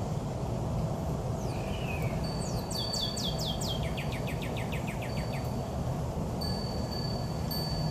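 A songbird singing a fast trill of short downward-slurred notes, about six a second, the run stepping down to a lower pitch partway through, over a steady low background hum. A thin, steady high tone comes and goes behind it.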